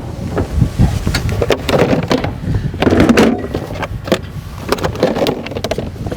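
Irregular knocks and rattles of tools and gear being handled, over a steady low rumble.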